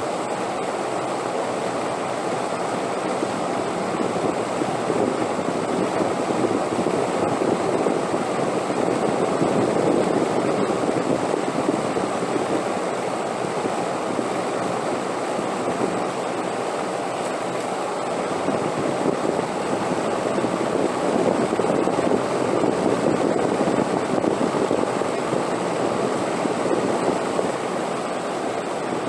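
Wind blowing steadily, a full rushing sound that swells twice in slow gusts and eases back between them.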